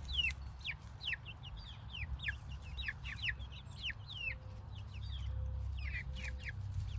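A flock of Brown Sex Link chicks peeping continually, many short calls each sliding down in pitch, about three or four a second and overlapping. A steady low rumble runs underneath.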